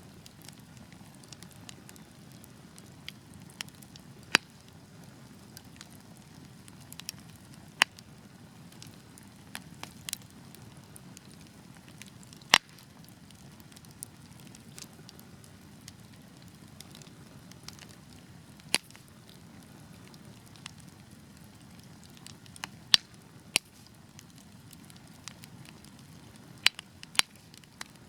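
Wood fire burning with a low steady rumble and irregular sharp crackles and pops from the logs, a dozen or so loud snaps standing out over the softer crackling.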